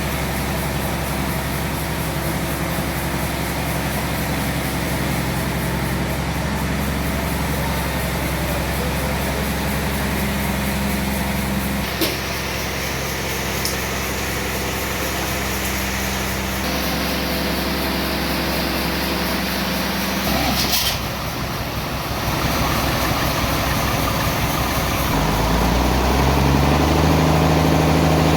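Sawmill machinery running steadily. Its motor tone shifts a few times, with a sharp click about twelve seconds in, and grows louder and higher near the end.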